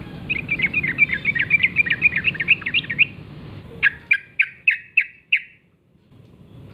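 Yellow-vented bulbul singing: a fast, bubbling chattering phrase of about three seconds, then a run of about six separate sharp notes, about three a second, before it stops.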